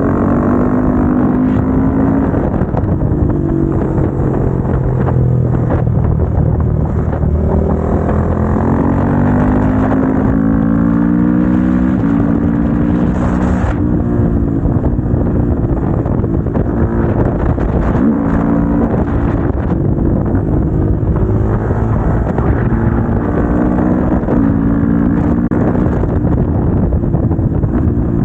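Motorcycle engine heard onboard while riding, the revs climbing and then stepping down again and again through gear changes and throttle changes.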